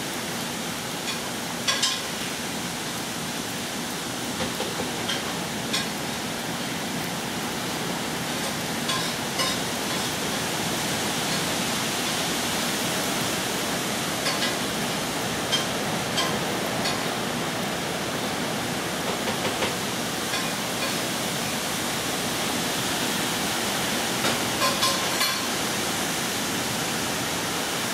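Steady downpour of hurricane rain, a dense even hiss, with scattered sharp taps of drops or drips striking a nearby surface in small clusters.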